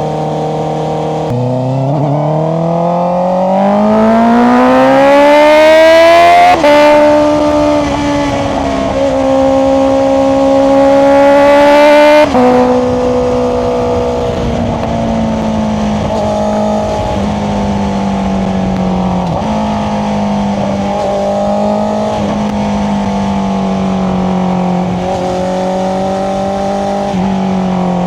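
Honda CBR650R's inline-four engine through an Akrapovic exhaust with its dB killer fitted, accelerating hard with revs climbing. It shifts up about six seconds in, pulls again, and shifts up near twelve seconds. It then cruises at fairly steady revs with small throttle changes.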